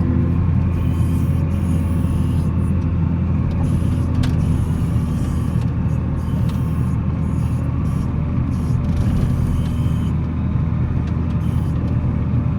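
Volvo L70C wheel loader's diesel engine running steadily under load while plowing snow, a constant low drone.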